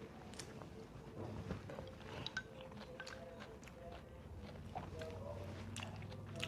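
Close-miked chewing and mouth sounds of a person eating, with many small sharp clicks.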